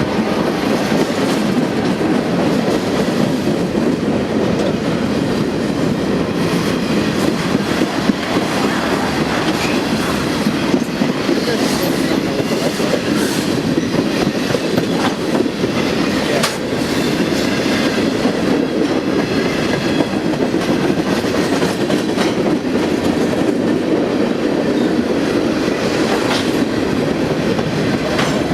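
Train rolling past close by: a steady, loud rumble of steel wheels on rail, with scattered sharp clicks of wheels crossing rail joints.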